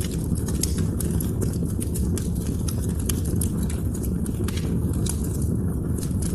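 Wood fire burning in a fireplace, with a steady low rumble and frequent irregular sharp crackles and pops.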